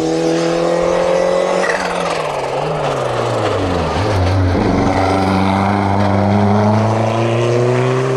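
A hillclimb rally car's engine under hard throttle, revs climbing, then lifting off with the pitch falling for a couple of seconds as it slows into a corner, then accelerating hard again with the revs rising steadily.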